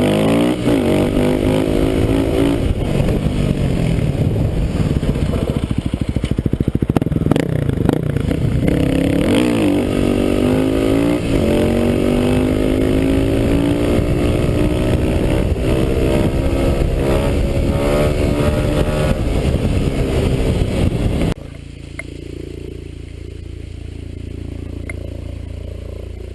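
Kawasaki KLX250S single-cylinder four-stroke engine revving hard under acceleration. Its pitch climbs and drops again and again as it shifts up through the gears. About 21 seconds in, the sound drops abruptly to a quieter, steady low rumble.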